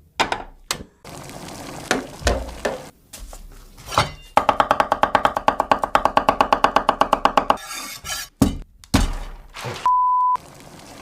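Edited comedy sound effects: a string of knocks and thuds, then about three seconds of a rapid pulsing, buzzy pitched tone at roughly nine pulses a second. More thuds follow, and a short steady beep near the end of the kind used to bleep out a swear word.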